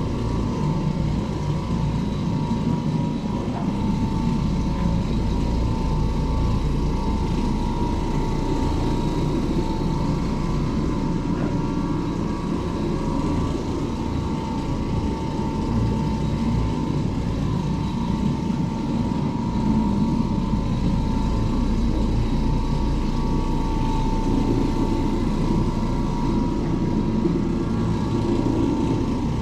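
Oreck Orbiter orbital floor machine running steadily while buffing carpet, a constant motor hum with a steady high tone.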